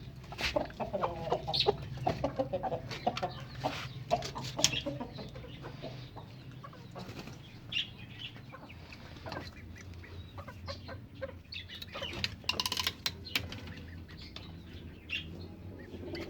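Hens clucking in short repeated calls, with scattered clicks and a brief flurry of wing flapping about twelve seconds in.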